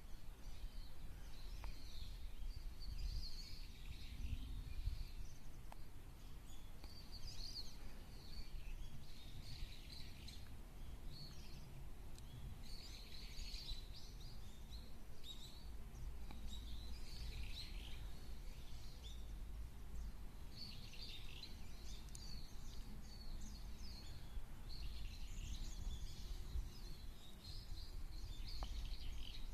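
Small songbirds chirping and twittering in short bursts of high calls, on and off throughout, over a steady low background rumble.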